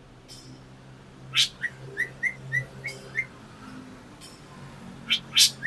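Black drongo calling: one sharp loud note, then a quick run of about six short chirps, and two more sharp notes near the end.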